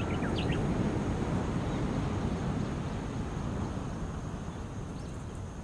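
Small waves washing on a seashore, a steady low rumble that slowly ebbs, with a few brief high bird call notes in the first half second.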